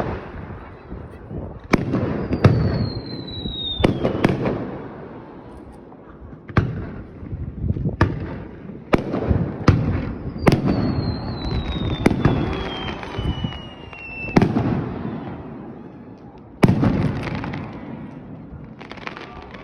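Aerial fireworks going off in a series of sharp bangs, each followed by a rumbling echo. Two long whistles fall slowly in pitch among the bangs.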